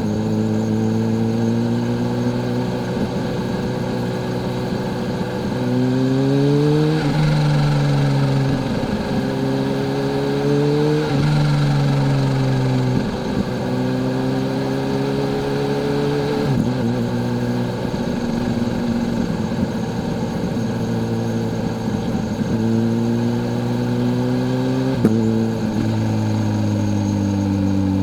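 Kawasaki Z H2's supercharged inline-four engine pulling under way, its pitch climbing slowly four times, each climb ending in a sudden drop, about seven, eleven, sixteen and twenty-five seconds in.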